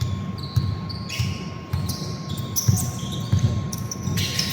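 Basketball play on an indoor court: a ball bouncing in repeated thuds, with sneakers squeaking in short high-pitched chirps on the floor.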